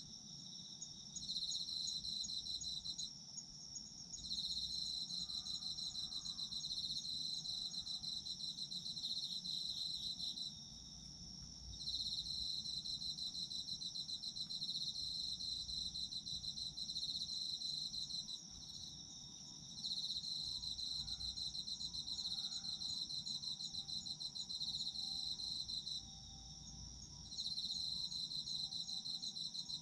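Autumn insects singing in chorus: one steady, unbroken high trill, with a second, slightly lower pulsing trill that sings in long phrases of several seconds broken by short pauses.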